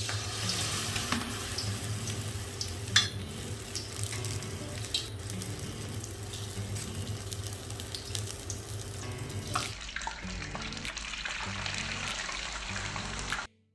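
Battered snacks deep-frying in hot oil: a steady sizzle with scattered crackles and pops, one louder pop about three seconds in.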